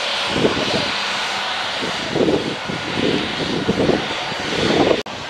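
Airliner engine noise: a steady, loud hiss with uneven low rumbles. The sound cuts out for an instant near the end.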